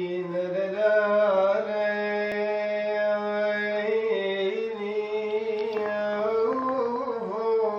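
A voice singing long, slowly wavering held notes, without clear words, over a steady low drone.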